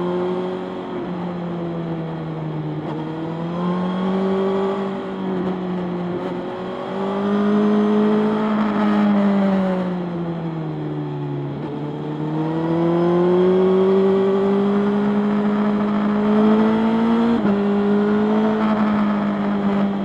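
Motorcycle engine heard while riding, its pitch rising and falling with the throttle. It dips to its lowest about halfway through, climbs again, and drops suddenly near the end, as at a gear change.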